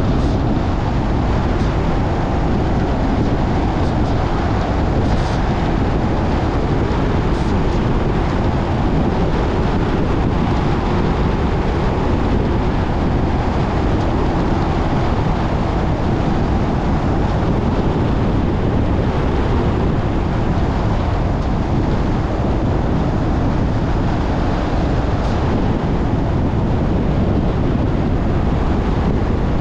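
Steady road and wind noise of a car driving at speed: an even, low rumble with a rushing hiss and no change through the stretch.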